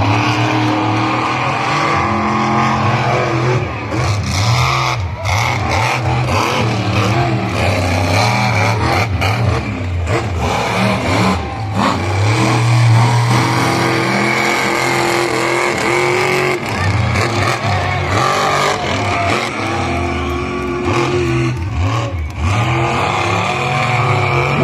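Monster truck engines racing, revving with the pitch rising and falling over and over as the drivers work the throttle.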